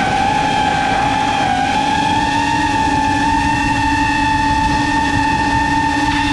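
FPV quadcopter's electric motors and propellers whining steadily over a rush of air noise. The pitch steps up slightly about two seconds in and creeps higher toward the end as the throttle changes.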